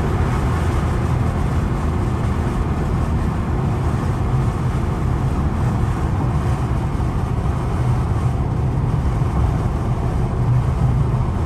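A car cruising at a steady speed: an even, low drone of engine and road noise, with no revving.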